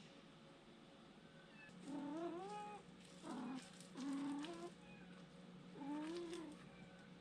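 Domestic cat meowing four times in short rising-and-falling calls, starting about two seconds in, over a faint steady hum.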